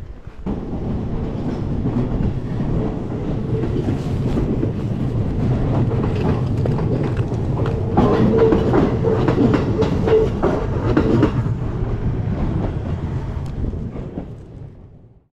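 A train running past with a steady rumble and clickety-clack of wheels, loudest about two thirds of the way through, then fading out.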